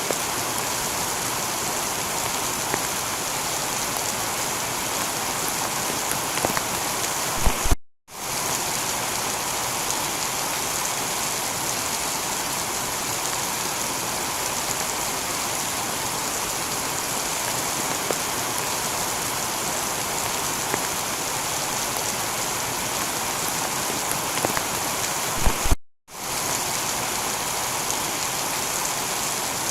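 Heavy rain falling steadily on a tiled roof, an even hiss of drops. Twice, about 8 and 26 seconds in, a few louder drops and a low thud come just before the sound cuts out for a split second.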